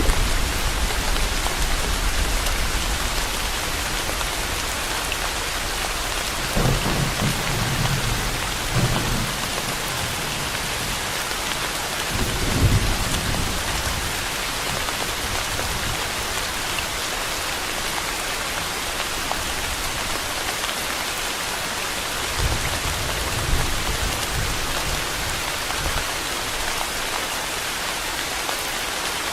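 Steady heavy rain, with low rumbles of distant thunder swelling and fading several times.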